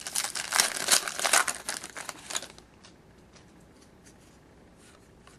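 A trading card pack wrapper being torn open and crinkled for about two and a half seconds, then faint ticks of the cards being handled.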